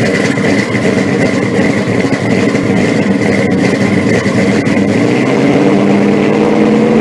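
A loud car engine running at steady revs.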